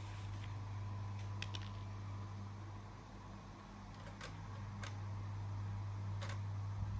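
Steady low hum with a faint steady high tone, broken by a few light clicks: a quick pair about a second and a half in, then single clicks near four, five and six seconds.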